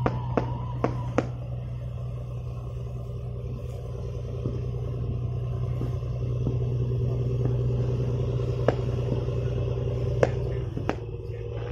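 Boat engine running with a steady low drone. Sharp cracks about half a second apart sound over the first second or so, and a few single cracks come near the end.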